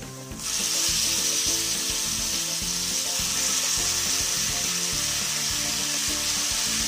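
Raw chicken pieces dropped into hot oil in a frying pan, sizzling; the sizzle starts suddenly about half a second in and then holds steady.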